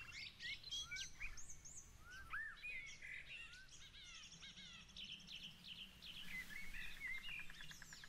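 Several songbirds singing at once: many quick rising and falling whistles and chirps overlapping, with a fast trill about six seconds in.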